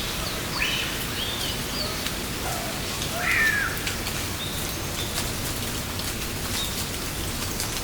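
Forest ambience: a steady wash of water under several short whistled bird calls, the loudest about three and a half seconds in, with scattered sharp ticks.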